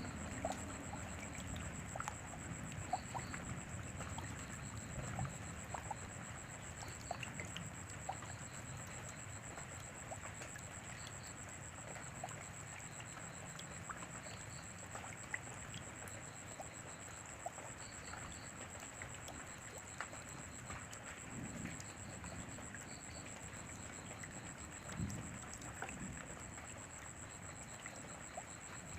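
Steady rain falling, with individual drops ticking through an even hiss. A thin, steady high-pitched tone runs underneath, and there are a couple of soft low rumbles in the second half.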